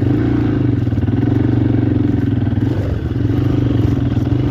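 Motorcycle engine, an air-cooled single-cylinder four-stroke of a 1990 Yamaha XT350, running loud and steady under light throttle, with a brief dip in level about three seconds in.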